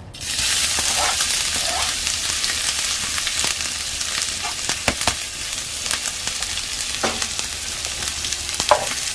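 Garlic and ginger dropped into hot oil in a frying pan, sizzling; the sizzle starts suddenly and then runs on steadily. A few sharp clicks of a utensil stirring in the pan sound through it.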